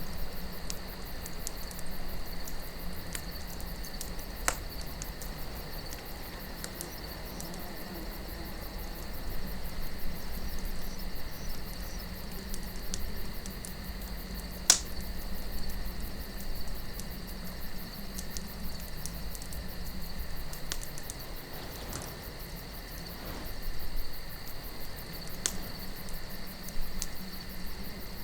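Wood campfire crackling, with scattered sharp pops, the loudest about halfway through, over soft wind that swells and eases. A steady high insect-like tone runs underneath.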